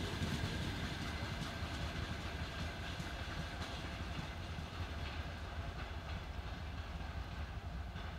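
A passenger train's coaches rolling away on the track, their wheel noise on the rails slowly fading as the train recedes.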